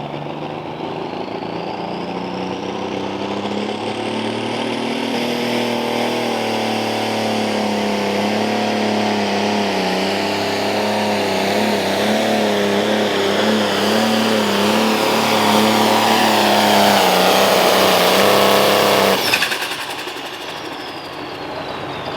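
Light Limited Super Stock pulling tractor's turbocharged engine running at full throttle through a pull, growing steadily louder with a high whine rising over it. The engine note cuts off suddenly about 19 seconds in as the pull ends.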